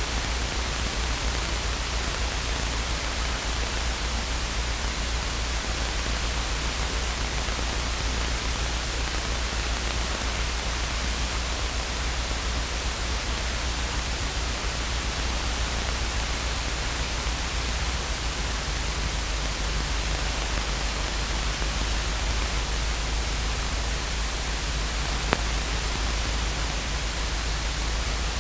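Steady hiss of a radio/intercom audio feed between air traffic control transmissions, with a low hum underneath and one faint click about 25 seconds in.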